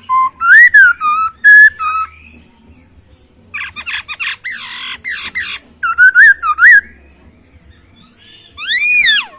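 Poksay Hongkong (a laughingthrush) singing: loud, clear whistled notes that glide up and down, broken in the middle by a couple of seconds of harsh, raspy chattering, then more whistles and one long rising-and-falling whistle near the end.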